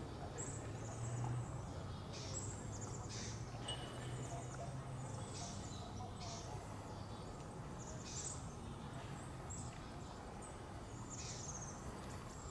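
Birds chirping: short, high calls repeating roughly once a second, over a faint low steady hum.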